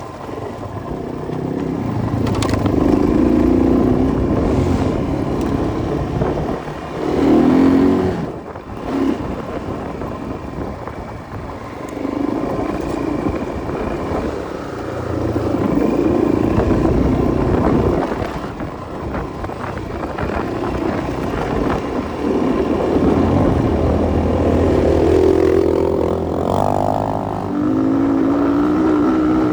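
Enduro motorcycle engine running under load and revving in repeated surges, its pitch rising and falling every few seconds, with a brief drop in revs about eight seconds in.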